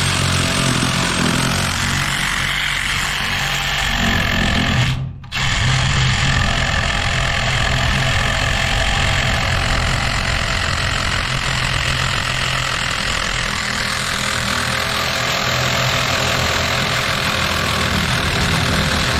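Power saw cutting through an old steel steam pipe, running steadily; it stops for a moment about five seconds in, then starts again and keeps cutting.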